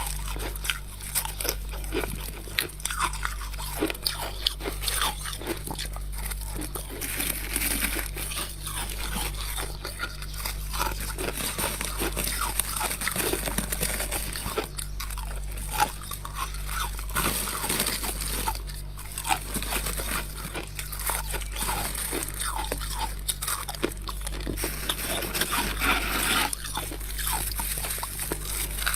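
Close-miked biting and chewing of freezer frost: a dense, irregular run of crunching and crackling over a steady low hum.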